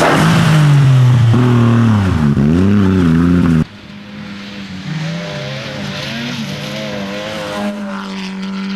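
Competition car engine revving up and down, loud and close, with a dip in pitch as the throttle lifts. About three and a half seconds in it cuts abruptly to a quieter engine note that rises and falls with the throttle.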